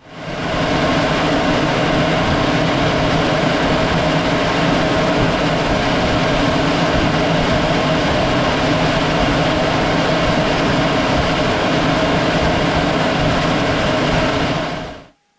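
Aircraft in flight: a steady roar of rushing air and engine that rises in about a second and stops sharply near the end. The roar comes from the airbrake extended under the fuselage.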